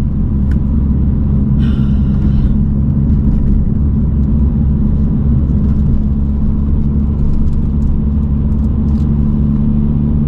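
Road noise heard inside a moving car: the engine and tyres give a steady low drone with no change in pace. A brief higher-pitched sound comes about two seconds in.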